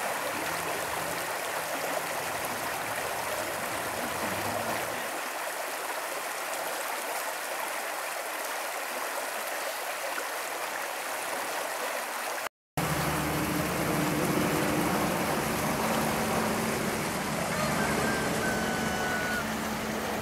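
Creek water running over rocks, a steady rushing. About two-thirds of the way through, the sound drops out for a moment, and afterwards a low steady hum runs under the water.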